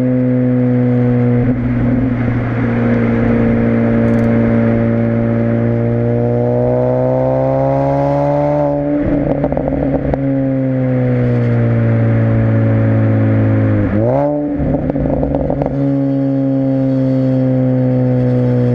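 2006 Mini Cooper S (R53) supercharged 1.6-litre four-cylinder running through an aftermarket Alta exhaust. The engine note holds steady, climbs slowly and then drops about nine seconds in with a rough, crackly patch. Near the end it dips briefly and jumps back up with another rough patch before settling into a steady drone.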